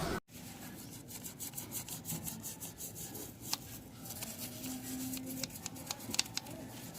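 Scrubbing and rubbing on a motorcycle engine during cleaning, with many irregular light clicks.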